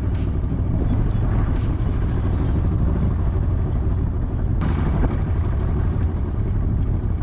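Old Yamaha outboard motor running steadily, a deep continuous drone, with a short sharp knock about four and a half seconds in.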